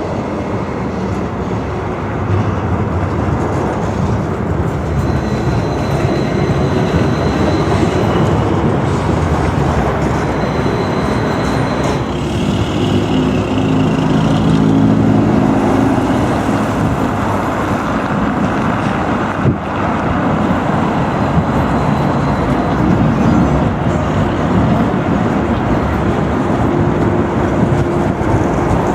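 71-301 tram train running along the track: a steady rumble of wheels on rails and running gear, with a faint motor whine rising in and out around the middle.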